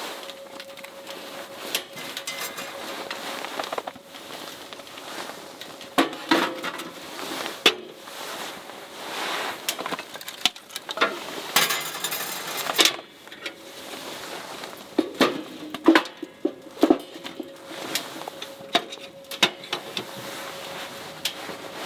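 Scattered clinks and knocks of objects being handled, as of dishes or camp gear, with a short hiss about twelve seconds in and a faint steady hum near the start and end.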